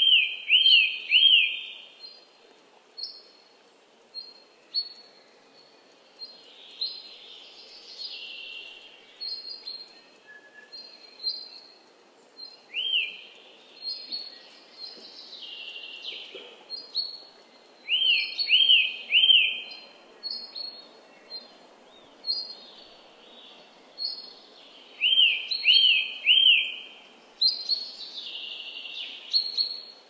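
Several songbirds singing together. The loudest is one bird's phrase of three quick rising-and-falling notes, repeated at the start, again about halfway and near the end. Around it run many short high chirps and warbled phrases from other birds over a faint steady hiss.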